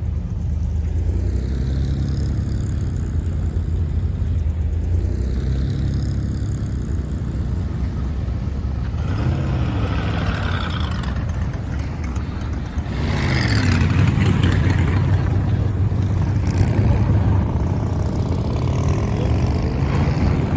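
Car engines running with a steady low rumble as cars move past, with a louder car coming through about two-thirds of the way in.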